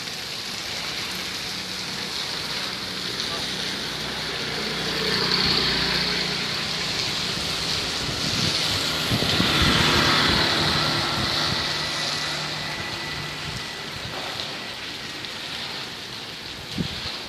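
Heavy rain falling in a steady hiss, with a low engine hum underneath. The hiss swells twice, around five and ten seconds in, like vehicles passing on the wet road.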